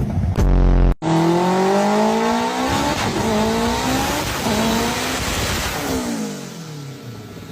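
Car engine at full throttle in a dyno pull, climbing in pitch through three gears with a drop at each shift, then falling away as it is let off near the end. About a second in, a short loud low drone from a different clip cuts off abruptly.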